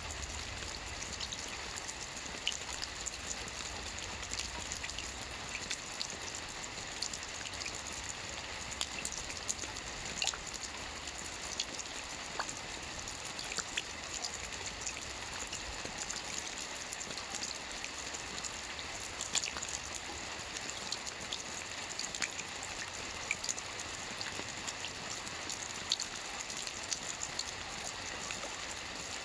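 Soft rain falling steadily on a roof: a continuous even hiss of rain with individual drops ticking irregularly on top.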